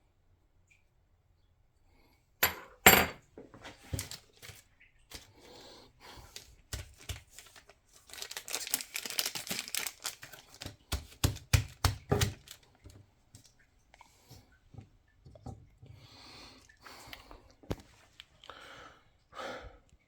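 Hands and tools working inside an opened boiler: two sharp knocks about two and a half seconds in, then scattered clicks and a longer stretch of rustling and scraping, with more rustling near the end.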